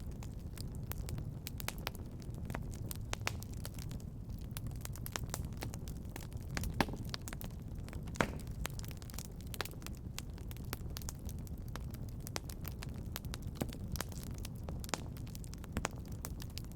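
Wood fire crackling in a fireplace: a steady low rumble of flame with many small snaps and pops, two of them louder near the middle.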